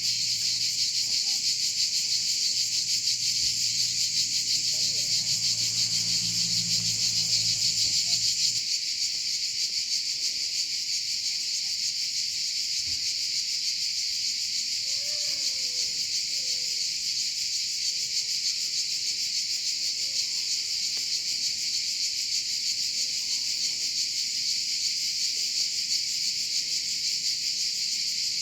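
A dense, steady chorus of insects chirring, filling the air without a break. A low hum underneath stops about eight seconds in, and faint sliding calls come through after that.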